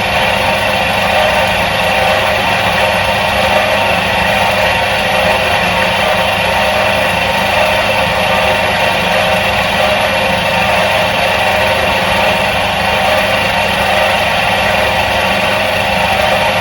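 Electric motor of a 1977 Soviet washing machine running at a constant speed: a steady, even hum and whir that does not change.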